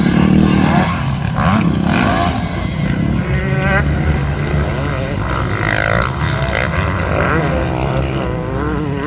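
Several motocross bikes running on the track at once, their engines revving up and down in overlapping, constantly changing pitches.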